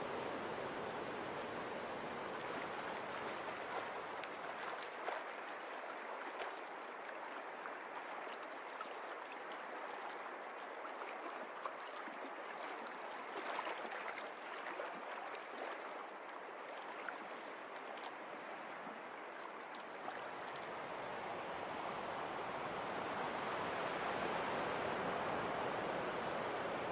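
Steady rushing and washing of sea water, with small crackles and splashes through the middle stretch. Near the end a fuller wash of surf swells up.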